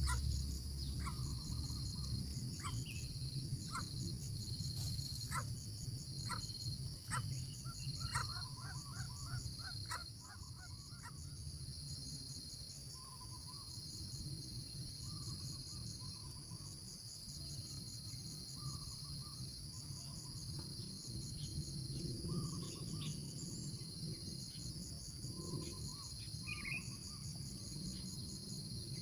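A steady chorus of insects trilling high and continuously, with a constant high tone above it, over a low rumble. Faint short chirps and clicks come and go, most of them in the first ten seconds.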